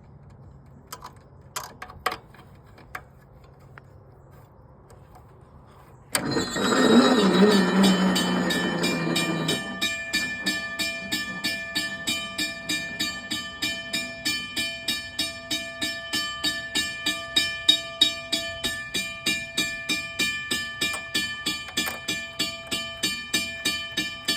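Railroad crossing signal being tested: a few relay clicks, then about six seconds in the crossing bell starts ringing in a fast, even stroke of about three a second, each stroke ringing on. For its first three or four seconds a louder noisy sound runs under the bell.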